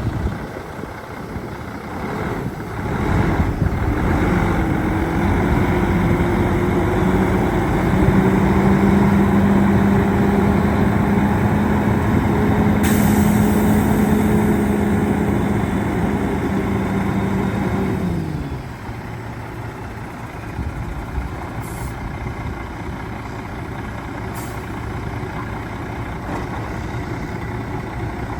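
Diesel engine of a 2005 Freightliner Columbia semi truck running. A few seconds in it rises to a steady, higher speed and holds there for about fourteen seconds, with a brief hiss about halfway through. It then drops back to idle.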